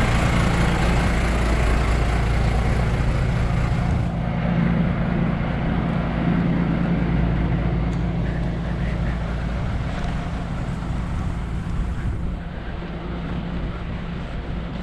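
An engine running steadily with a low hum, its noise easing off about four seconds in and again near the end.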